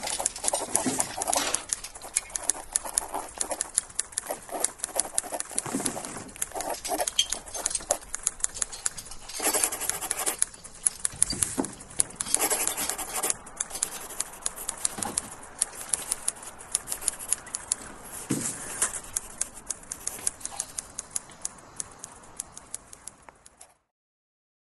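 A bird fluttering and flapping, with dense, irregular clicks and taps and two louder flurries of wingbeats about ten and twelve seconds in. The sound cuts off suddenly just before the end.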